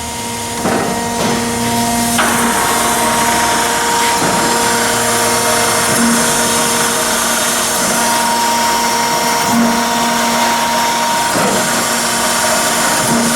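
Chevalier 1628AD surface grinder running, a steady machine hum and whine, as its wheel head is driven on power elevation.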